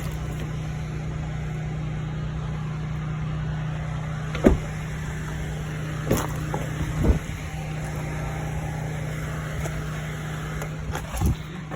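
2022 Mazda CX-3's engine idling steadily with a low, even hum, broken by a few short knocks or thumps midway through.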